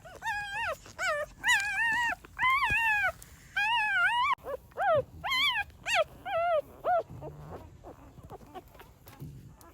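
Newborn puppies whimpering and squealing in a rapid string of high, wavering cries, which die away about seven seconds in.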